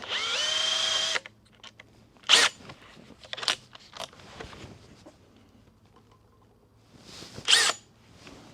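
Power drill with a 1/8 inch bit spinning up and running for about a second, then stopping. Several sharp clinks and knocks of metal tool handling follow, the loudest about two and a half seconds in and near the end.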